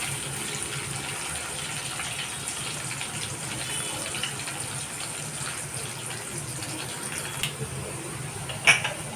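A steady rushing noise with a low hum under it, broken near the end by a sharp clink.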